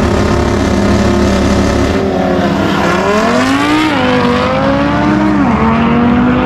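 High-powered tuned cars accelerating hard in a head-to-head drag run, engines revving up and dropping sharply in pitch at gear shifts about four seconds and five and a half seconds in.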